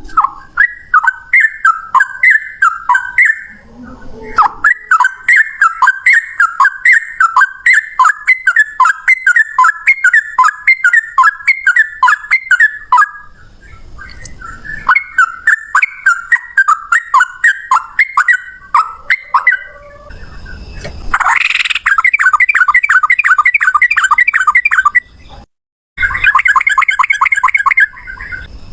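Sooty-headed bulbul (trucukan) singing: long, rapid runs of loud chirped, whistled notes with a couple of short pauses. For the last several seconds the song becomes a fast, even trill, broken once by a brief dropout.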